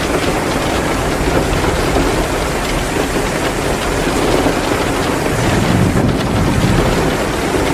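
Heavy rain pouring steadily, mixed with the crackle of a wood fire burning in a fireplace: a dense, even hiss scattered with many small ticks.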